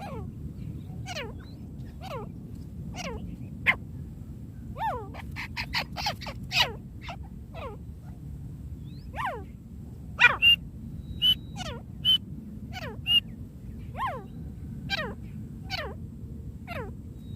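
Francolin (teetar) calls: short notes that slide steeply down in pitch, repeated about once a second. A quick run of notes comes near the middle and sharper, louder notes a little past halfway, over steady low background noise.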